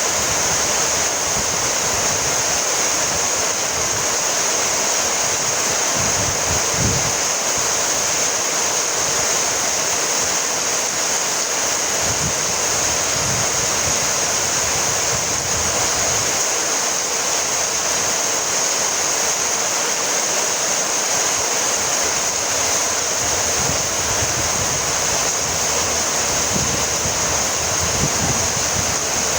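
Steady rainfall, a continuous even hiss, with a few faint low rumbles underneath.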